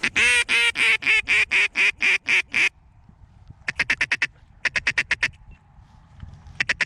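Duck call blown in mallard hen quacks: a loud descending series of about ten quacks, followed by three short, rapid bursts of clipped quacks.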